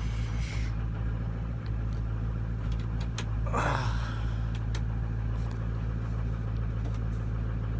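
Ford 6.0 Powerstroke V8 turbodiesel idling steadily just after a true cold start at 24°F without the block heater plugged in, so the engine is still cold. A brief higher-pitched sound rises over the idle about three and a half seconds in.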